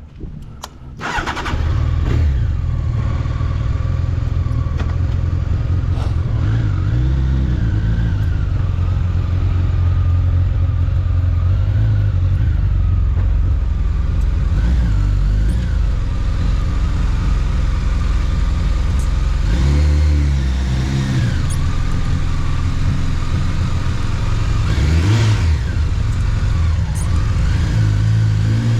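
Honda CBR1100XX Blackbird motorcycle's inline-four engine starting about a second in and then running under way, its pitch rising and falling several times with the throttle and gear changes.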